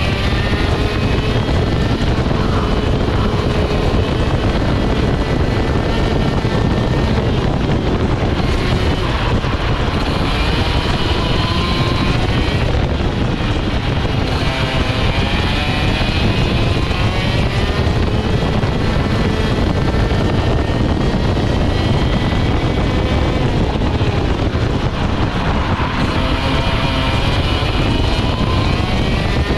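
Vortex ROK GP 125 cc single-cylinder two-stroke kart engine at full racing pace, its revs rising on the straights and dropping into the corners again and again.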